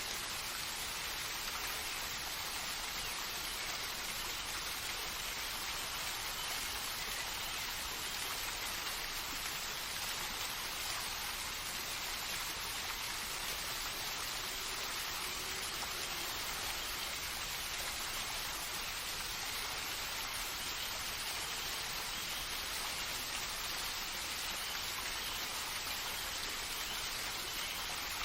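Steady, even hiss of rain or running water in a nature soundscape, unchanging throughout.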